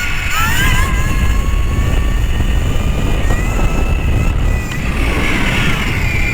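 E Ride Pro SS 3.0 electric dirt bike's motor whining, rising in pitch as it accelerates about half a second in, then holding steady, with wind rumbling heavily on the helmet camera's microphone.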